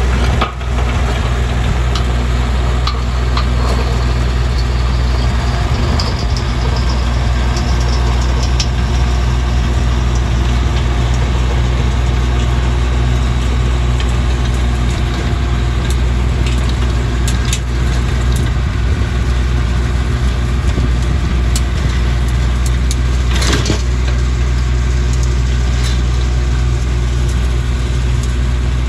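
Bobcat compact tractor engine running steadily while it works a rear rototiller through the soil, with a few short clicks and knocks on top, the sharpest about three-quarters of the way through.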